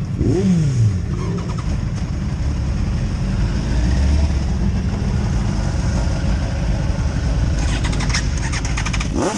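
Several motorcycle engines idling together, with one revved briefly about half a second in and its pitch falling back. A rapid clattering comes through near the end.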